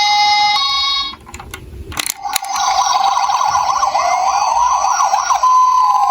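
Electronic toy emergency-vehicle sirens: a hi-lo two-tone siren that stops about a second in, a click, then from about two seconds in several sirens sounding at once, a fast warbling yelp and a rising wail, going back to a hi-lo two-tone near the end.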